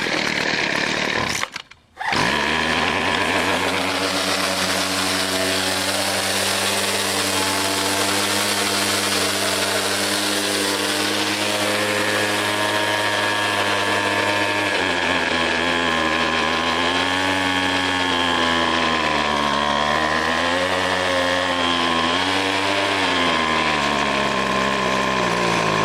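Craftsman 25cc two-stroke gas string trimmer engine starting and running: it catches about two seconds in and runs at a steady speed, then in the second half its pitch rises and falls as the throttle is worked.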